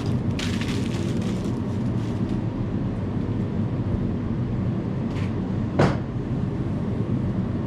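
A steady low engine-like rumble running throughout, with a quick rattle of metallic clicks about half a second in and a single sharp metal clink near the end.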